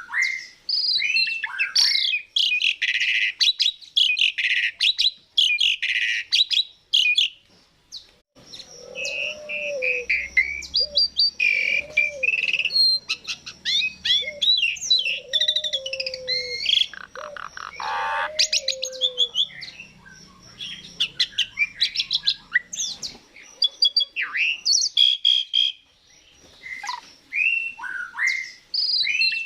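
Asian pied starling singing: a long, varied run of whistles, slurred notes and harsh chattering rattles, with short pauses about 8 and 25 seconds in. Through the middle, lower repeated calls sound beneath the song.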